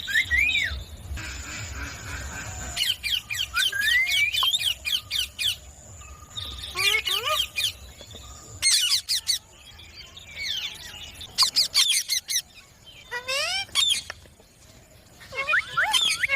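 Green parrot calling in repeated bursts of squawks and chirps, each made of quick rising and falling notes with short gaps between bursts.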